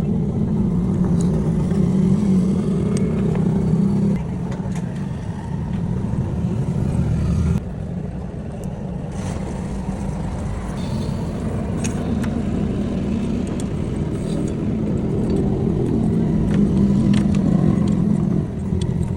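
Motorcycle engine running steadily, its level dropping about four seconds in and again a few seconds later, then building back up toward the end.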